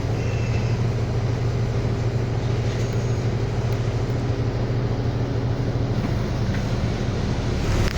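City bus engine running steadily under way, a low drone mixed with road and cabin noise heard from inside the bus.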